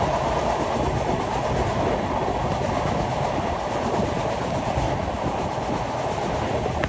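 A train running on rails, a steady rumble of wheels and carriages that holds even, with no break.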